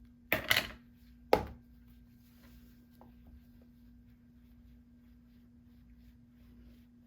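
Sharp knocks of stamping gear on a craft table: two quick ones in the first half second and a louder single knock about a second in. After that come only faint small handling clicks over a steady low hum.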